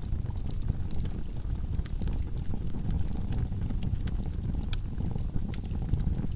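Wood logs burning in a fireplace: a steady low rumble of flames with frequent sharp crackles and pops, two of them louder in the second half.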